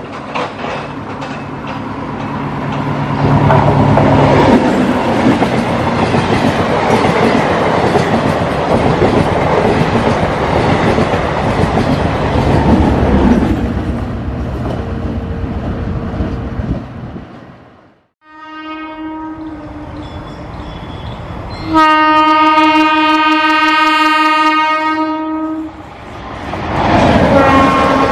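A DEMU (diesel-electric multiple unit) train approaching and passing, its engine and wheels on the rails building into a loud, steady rush over the first half, then cutting off suddenly. A train horn follows twice: a short blast, then a louder long one of about four seconds. Near the end another train's running noise rises again as it passes.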